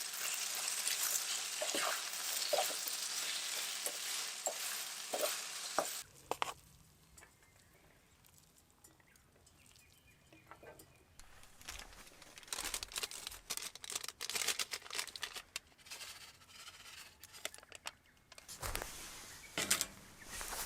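Food sizzling and crackling in a hot frying pan, which cuts off suddenly about six seconds in. Then come quiet outdoor surroundings with scattered light clicks and rustles, which grow busier near the end.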